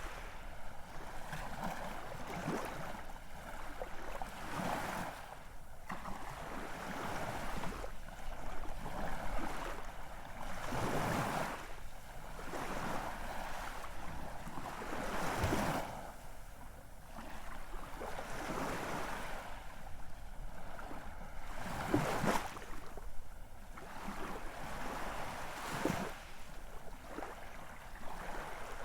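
Ocean surf: waves breaking and washing ashore in surges every few seconds, with a steady hiss of water in between.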